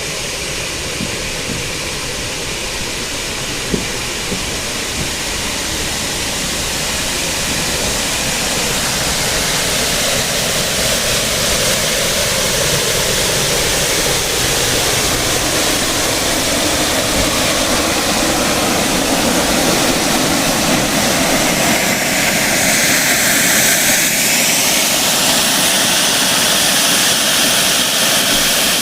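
Steam-hauled passenger train running along the track, heard from inside a carriage compartment: a steady rushing rumble that grows gradually louder.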